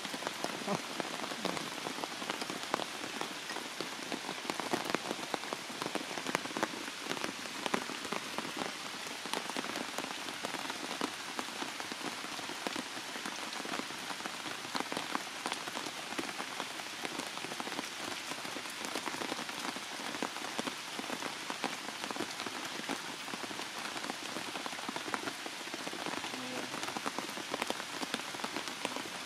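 Heavy rain falling steadily: a dense, even hiss with many close drop hits.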